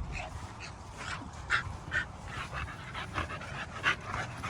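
Dogs giving about five short, high-pitched whimpers over a low background rumble.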